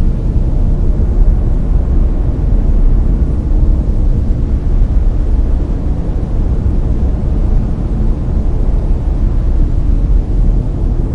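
Layered brown noise: a loud, steady, deep rushing hiss, strongest in the bass and fading toward the treble.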